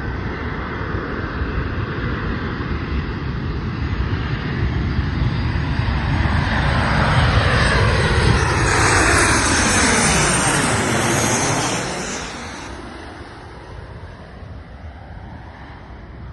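Jet engines of a United Airlines Boeing 737-900ER (CFM56 turbofans) on landing approach, passing low overhead. The sound builds to a peak, sweeps down in pitch as the plane goes by, then fades.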